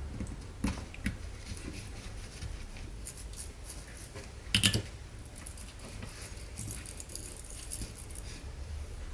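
Scattered light clicks and ticks of small parts and tools being handled during a transmission rebuild, with one louder knock about halfway through, over a low steady hum.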